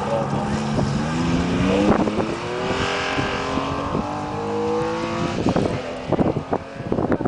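Classic Porsche 911's air-cooled flat-six engine at full throttle, its note rising in pitch as the rally car accelerates away. Near the end comes a scatter of sharp knocks and clicks.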